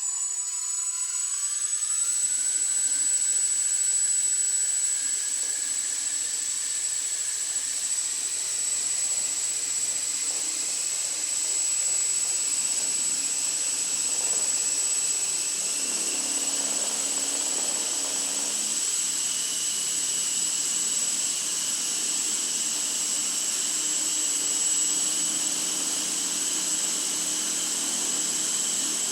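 Small belt-drive coaxial model helicopter's motors and rotors spooling up over the first couple of seconds, then running steadily with a strong high whine.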